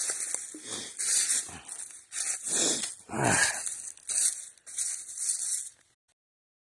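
Footsteps crunching through dry leaf litter at a walking pace, with a short falling squeak about three seconds in. The sound cuts out abruptly about six seconds in.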